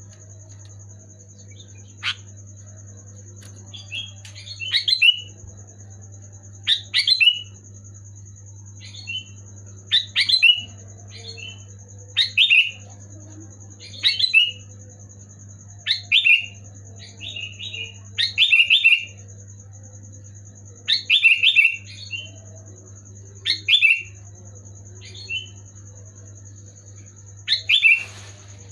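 Sooty-headed bulbul (kutilang) singing: short phrases of a few quick chirping notes, repeated about every two seconds. A steady low hum runs underneath.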